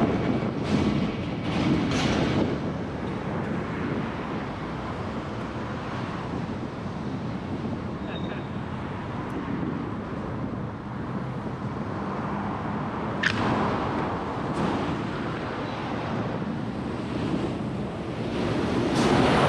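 Wind buffeting the microphone during a ride: a steady rushing noise that swells in gusts near the start and end, with a sharp tick about two-thirds of the way through.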